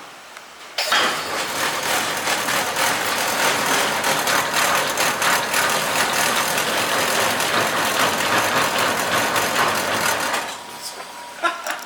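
Road-force wheel balancer spinning a 40-inch tire under test. It starts abruptly about a second in, runs as a loud steady whirring rush for roughly ten seconds, and winds down near the end.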